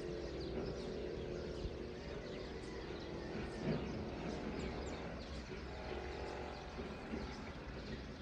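Many small birds chirping in quick, overlapping calls, over a steady low hum.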